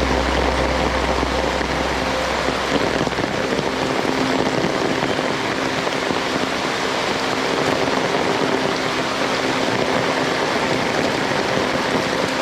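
Heavy monsoon rain falling steadily, pattering on surfaces. A low rumble underneath dies away about four seconds in.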